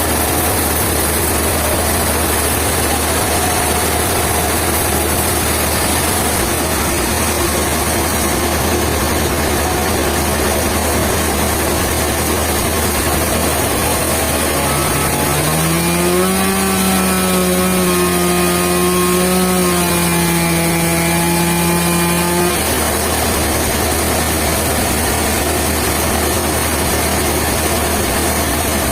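An engine running steadily at idle. About halfway through, a pitched tone rises, holds for about eight seconds, then cuts off.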